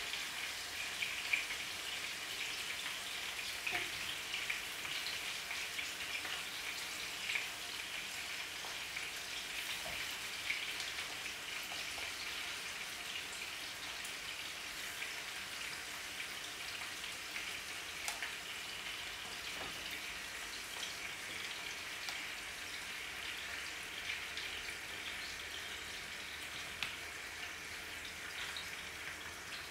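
Seasoned chicken pieces frying in hot oil in a pan: a steady sizzle with small crackles and pops throughout as more pieces are laid in.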